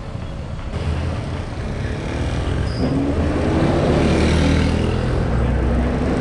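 Street traffic: a motor vehicle's engine running close by, its pitch rising as it accelerates, over a steady low rumble.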